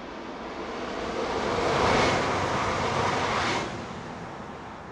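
Alstom ETR 104 Pop electric multiple unit passing at speed. The rush of wheels and air builds, is loudest about two seconds in, holds until about three and a half seconds, then falls away as the train goes past.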